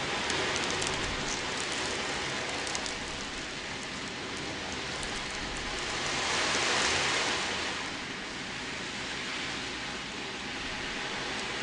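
Wave drum (ocean drum): the beads inside roll across the drumhead as it is tilted, making a surf-like wash that swells to a peak a little past halfway and then ebbs. Light rattling of individual beads is heard near the start.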